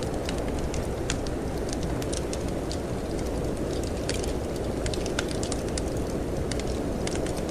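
Wood fire crackling in a fireplace, with frequent small irregular pops, over a steady low rush of snowstorm wind.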